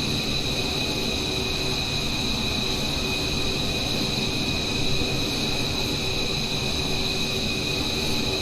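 Steady jet aircraft noise: a constant rush with several high, steady whining tones that do not change in pitch or level.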